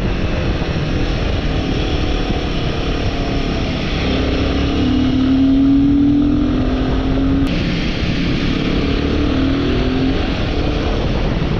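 Royal Enfield motorcycle engine running at cruising speed under a steady rush of wind and road noise, its pitch climbing slowly for a few seconds midway as the bike speeds up.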